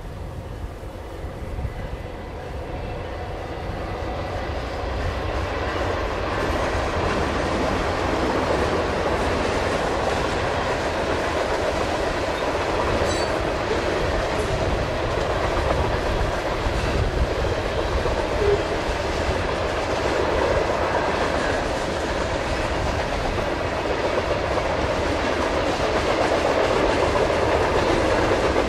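Freight train passing behind its diesel locomotives. The rumble grows louder over the first several seconds as the train approaches, then settles into the steady rumble and clickety-clack of loaded freight cars rolling by on the rails.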